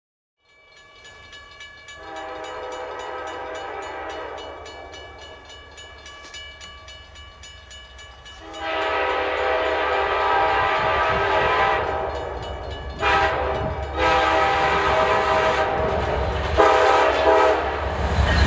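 Amtrak Vermonter's locomotive air horn blowing its chord as the train approaches. A first blast starts about two seconds in and fades, a louder long blast comes near the middle, then several shorter blasts follow toward the end. Under the horn the rumble of the train grows louder.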